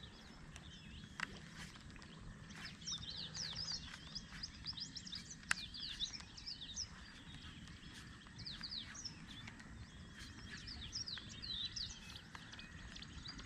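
Faint, busy chorus of birds chirping: many quick, short calls overlapping, over a light steady hiss. A single sharp click about five and a half seconds in.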